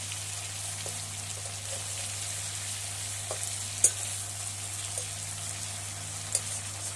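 Prawns shallow-frying in hot oil in a metal kadai, a steady sizzle, while a metal spatula turns them and knocks against the pan a few times with short sharp clicks, the loudest just before the middle. The prawns are being fried only lightly on each side.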